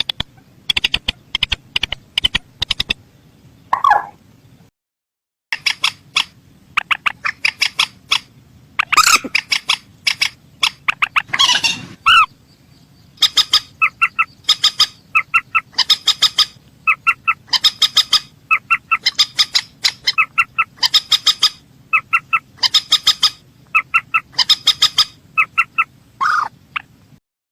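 Mandar sawah (a rail) calling in repeated quick bursts of short, rapid clucking notes, a few groups a second. There is a brief break about five seconds in, and the sound stops just before the end.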